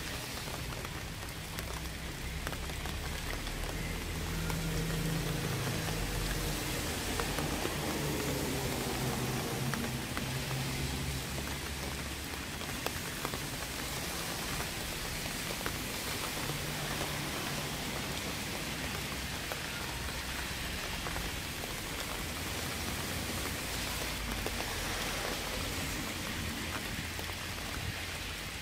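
Steady rain falling, an even hiss of many drops on surfaces. A faint low hum runs underneath from about four seconds in for roughly ten seconds.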